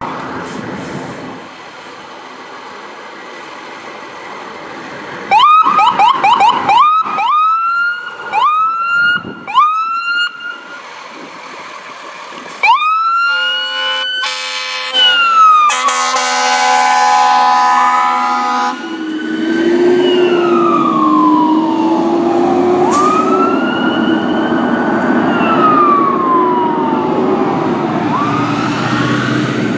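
Fire truck siren passing: a run of short rising whoops, then a longer rise, a blast of steady chord-like horn, and then a slow wail rising and falling over the truck's engine running.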